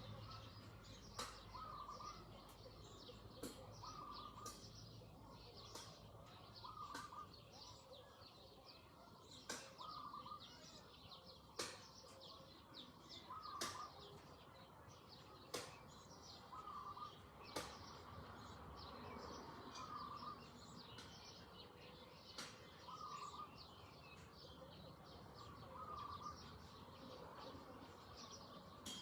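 Birds chirping and calling in the countryside: a busy mix of small high chirps, a short call repeated every two to three seconds, and sharp clicks that recur about every two seconds.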